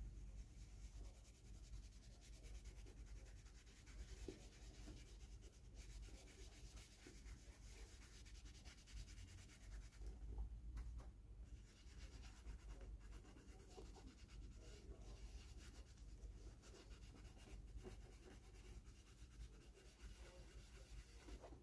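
Faint, irregular rubbing of a cloth working polish into a dry leather boot cuff.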